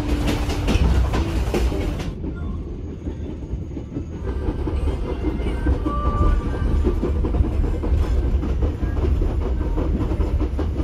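Steady low rumble and clatter of a moving passenger train's wheels on the rails, heard inside the carriage; the higher hiss thins out about two seconds in.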